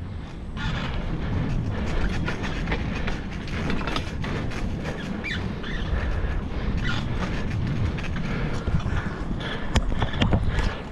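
Bicycle ridden over a rough forest trail: a steady low rumble with constant small rattles and squeaks from the bike, and a few sharper knocks near the end.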